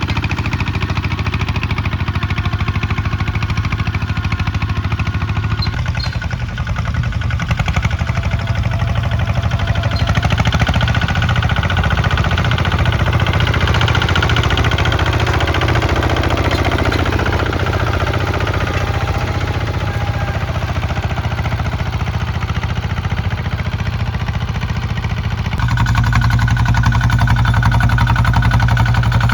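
Kubota ZT155 single-cylinder diesel engine running steadily as it works a plow. Its note shifts about six seconds in and changes abruptly to a deeper, louder tone about 25 seconds in.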